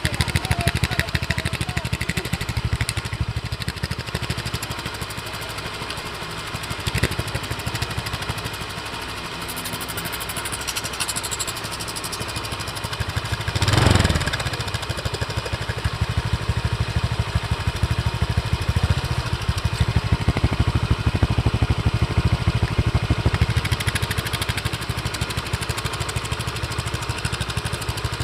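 Motorcycle engine running through a modified loud 'mber' exhaust, mostly idling, with one short rev about fourteen seconds in.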